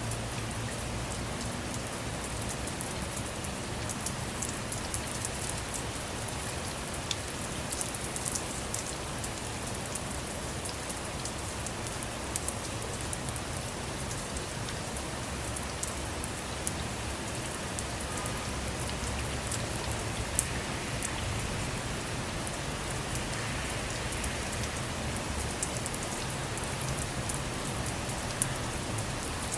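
Steady rain falling on a car, heard from inside, with many scattered sharp ticks of single drops hitting the roof and windows.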